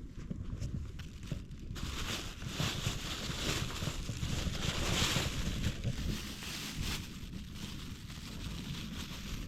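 Wind on the microphone: a steady low rumble, with a rustling hiss that builds to a peak in the middle and then fades.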